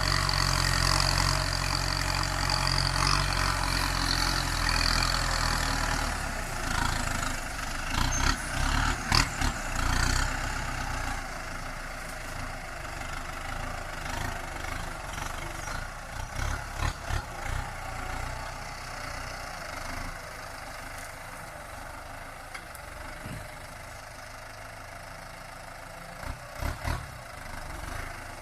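Kubota M9540 tractor's four-cylinder diesel engine running steadily, louder for the first six seconds and quieter after. Several short clusters of knocks come through over it.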